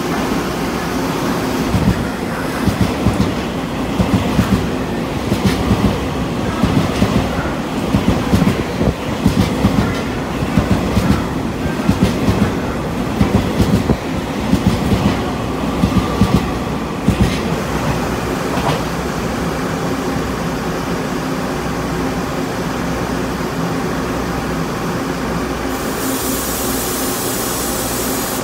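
Taiwan Railways EMU3000 intercity electric train passing through at speed, its wheels sounding a run of rhythmic clacks for about fifteen seconds before the sound dies away. A steady machine hum lies underneath throughout, and a high hiss comes in near the end.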